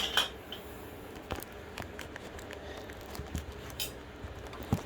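Scattered small metal clicks and taps from hand tools being worked in a motorcycle muffler while pulling its baffle out with a hooked nail and a slide hammer, with a sharper knock right at the start.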